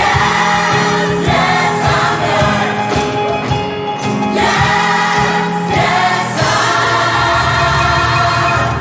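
Large gospel choir singing an upbeat soul number in full voice over a steady beat.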